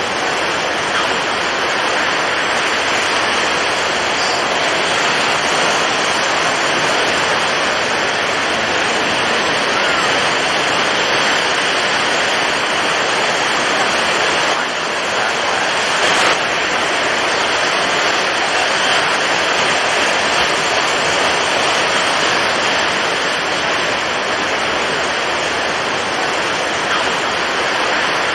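Storm at sea: a steady, dense rush of strong wind and breaking waves, with one sharp crack about sixteen seconds in.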